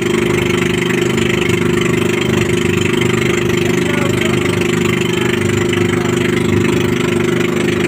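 Engine running steadily at an even speed, a constant drone with no change in pitch.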